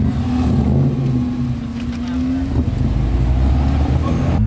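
A car's engine and exhaust running loudly at low revs, the tone rising slowly for about two and a half seconds and then settling lower.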